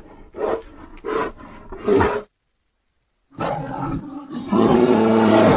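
Designed sound effects of a South American short-faced bear (Arctotherium): three short grunts in the first two seconds, a second of silence, then a long roar that grows louder about a second after it starts.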